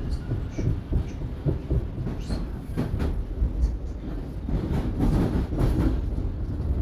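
Toronto Line 1 subway train running between stations, heard from inside the car: a steady low rumble of wheels on rail with frequent irregular clacks and knocks, getting a little louder in the second half.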